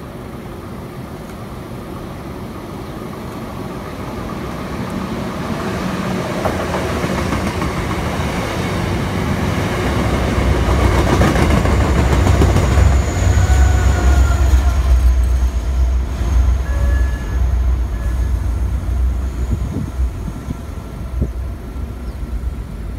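MBTA commuter rail push-pull train approaching and passing. First comes a rumble of coaches on the rails that grows louder for about ten seconds. Then the diesel locomotive at the rear passes with a deep, steady engine drone, and a faint high whine is heard partway through. The sound fades as the train moves away near the end.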